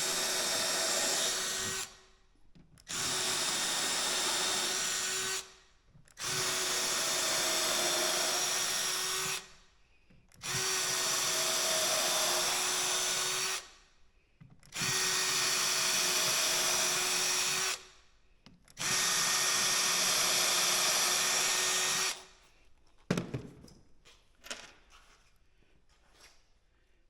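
Power drill pre-drilling screw holes into dense white oak, run in six steady bursts of about three seconds each with short pauses between. A few clicks and knocks follow near the end.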